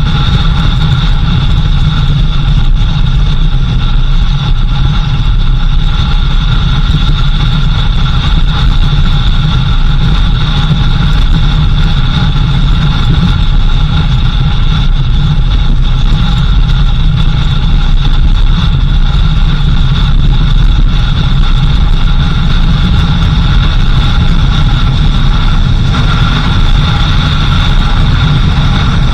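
A 4x4 vehicle's engine and drivetrain running steadily while driving, a constant low rumble with a steady high whine over it.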